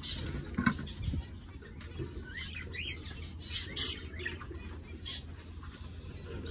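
Caged aviary birds chirping in short high calls, with two brief louder rustles, like wing flaps, about three and a half to four seconds in.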